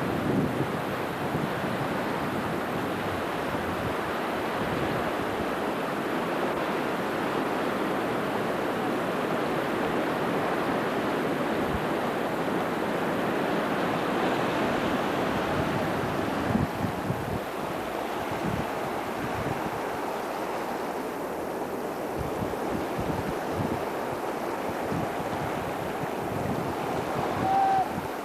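Steady rushing of flowing floodwater. From about halfway through, low thumps of wind buffet the microphone.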